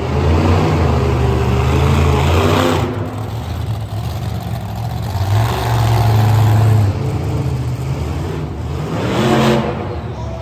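Big monster truck engine revving, its deep drone rising and falling several times.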